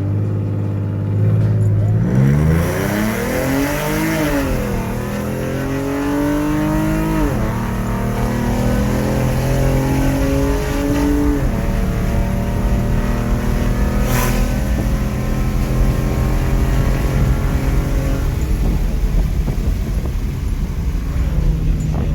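Ford S550 Mustang 3.7L V6, straight-piped with long-tube headers, pulling hard through the gears. The engine note climbs in pitch and drops sharply at each upshift, three times in the first dozen seconds, then settles into a steady drone at speed. There is a single sharp click about fourteen seconds in.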